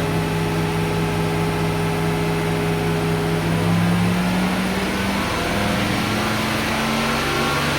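Okuma Genos L300E-MY CNC lathe spindle running at about 2,000 RPM: a steady motor and drive hum with a held whine that rises a little in pitch about four to five seconds in.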